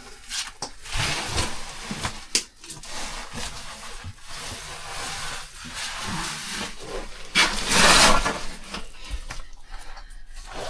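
Scraping, rubbing and knocking of boots, clothing and rope against rock and mud as a caver climbs down a muddy pit, with a louder rushing scrape about seven and a half seconds in.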